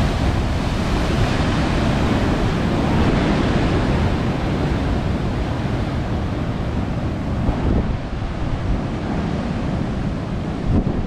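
Ocean surf rushing and breaking in a continuous roar, with wind buffeting the microphone.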